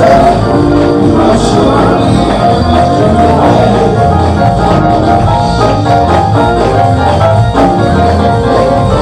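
Live gospel music from a church band: held keyboard chords over a pulsing bass line and a drum kit, playing steadily.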